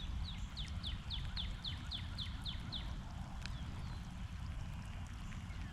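A bird singing a run of about a dozen quick, evenly spaced down-slurred notes, about four a second, lasting roughly three seconds, over a steady low rumble.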